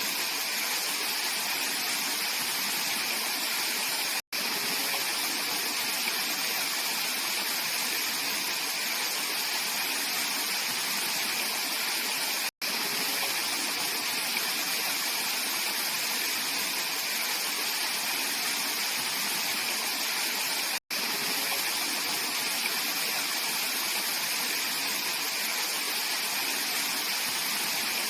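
Mountain stream rushing steadily over rocks, an even bright water noise, cut by three very brief dropouts to silence.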